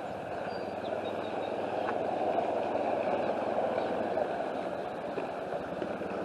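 Fast, debris-laden floodwater of a swollen creek rushing under a bridge, a steady noise that swells a little in the middle.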